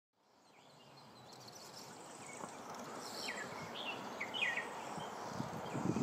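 Forest ambience fading in: a steady hiss with a few short, high bird chirps in the middle, and a louder low rushing noise starting near the end.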